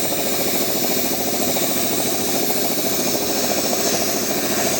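10 hp piston air compressor running steadily under test, its rapid even pumping beat unchanging throughout.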